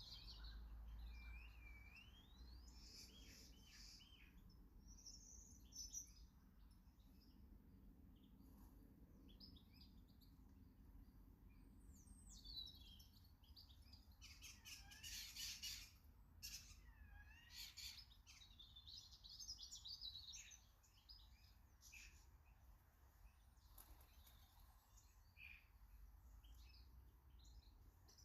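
Faint garden birdsong: several small birds chirping and singing in short whistled phrases and calls, busiest about halfway through.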